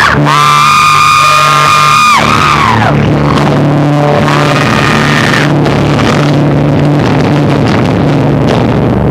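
Live rock band playing loud and distorted: electric guitar, bass and drums, badly overloaded. A long high note is held for about two seconds and then slides down, with a shorter held note a few seconds later.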